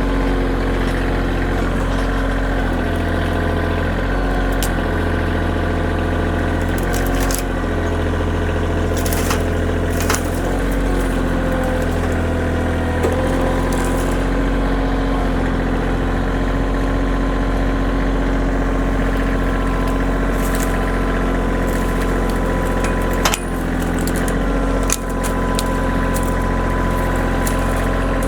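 Kioti compact tractor's diesel engine running steadily, its note shifting a few times in the first half. A couple of brief knocks come near the end.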